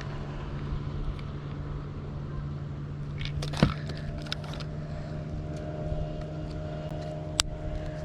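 Steady low motor hum with a few sharp clicks and knocks over it, the loudest a little over a third of the way through and another near the end.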